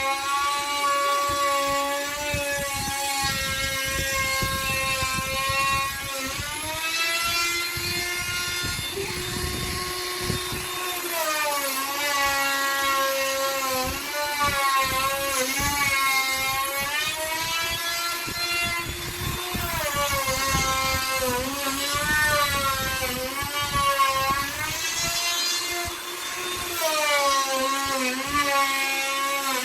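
Handheld electric wood router carving a door panel. Its motor whine dips in pitch again and again as the bit bites into the wood, then climbs back as the load eases.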